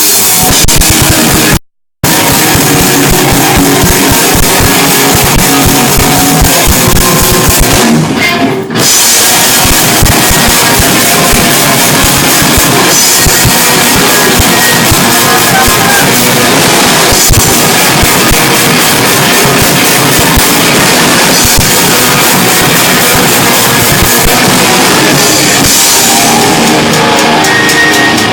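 Rock band playing live and very loud: pounding drum kit and guitar fill the sound. The audio cuts out completely for a split second about two seconds in.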